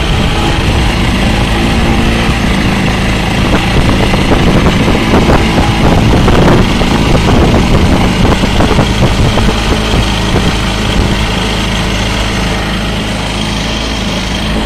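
A 4 hp outboard motor on a canoe running steadily, a little louder for a few seconds in the middle.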